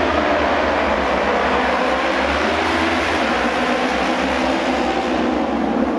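Auto race motorcycles running on the track: steady, loud engine noise with no break.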